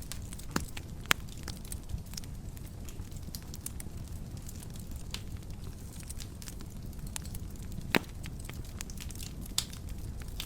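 Wood fire burning in a fireplace: a steady low rumble of flames with scattered sharp crackles and pops, the loudest pop about eight seconds in.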